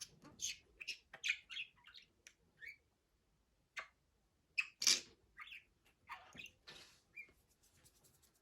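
Budgerigar chirping and chattering: a string of short, high chirps and squawks, the loudest about five seconds in.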